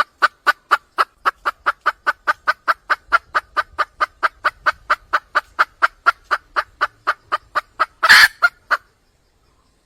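Junglefowl hen clucking in a fast, even series of about four or five short clucks a second, the call a hen gives to draw a male. Near the end comes one louder, longer squawk, and the clucking stops about a second before the end.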